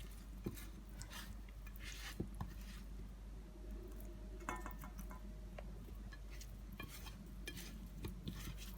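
Scattered light taps and clinks against a glass bowl as pieces of sea bass are tossed in dry seasoning, with one brief ringing clink about halfway through.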